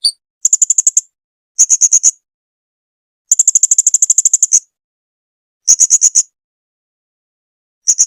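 Blue-crowned hanging parrot (serindit) calling: short bouts of rapid, shrill, high-pitched notes, about ten a second, with the longest bout of over a second in the middle and five or so bouts in all, separated by short gaps.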